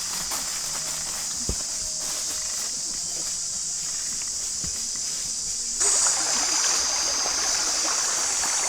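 Outdoor stream ambience: a steady high hiss with faint trickling, and a single short knock about a second and a half in. About six seconds in the sound abruptly gets louder and fuller.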